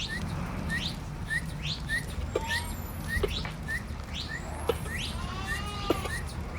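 Birds chirping and calling: one quick chirp repeats about three times a second among falling whistles and other calls, over a steady low rumble.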